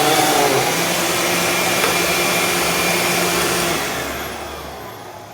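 Dirt Devil Ultra Vision Turbo upright vacuum running steadily, then switched off about four seconds in and winding down, its pitch falling and its sound fading.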